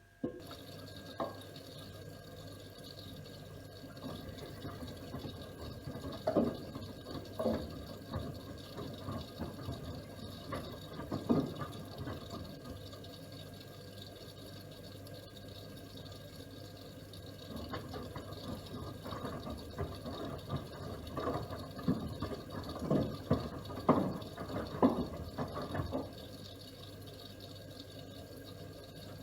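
Miele W1 front-loading washing machine mid-wash: water and wet laundry slosh and splash in the turning drum over a steady low hum. The splashing comes in two spells of about eight seconds with a quieter pause between, the drum turning, stopping and turning again.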